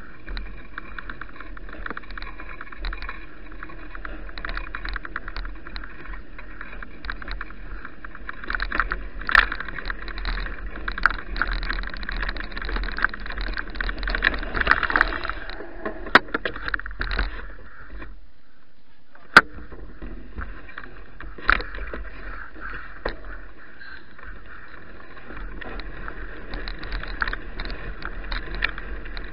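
Riding noise from a bicycle heard through an action camera: wind rumbling on the microphone, with frequent small rattles and clicks from the bike. It drops quieter about 18 seconds in, ending with one sharp click, then carries on.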